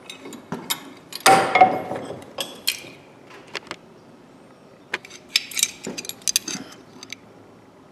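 Metal hand tools being handled and set down on a workbench: a scattering of small clinks and knocks, with a louder scrape and clatter about a second in.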